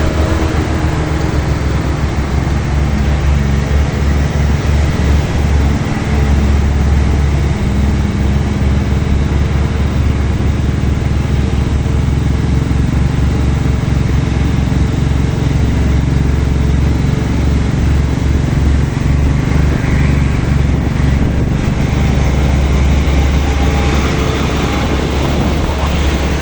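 Engine of a fully loaded truck running steadily on the road, with a strong low drone and road noise.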